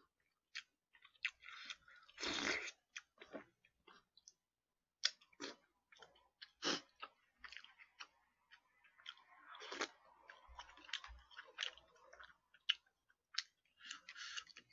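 A person chewing and eating, with wet mouth sounds and scattered short clicks and taps as a spoon works in plastic takeout food containers.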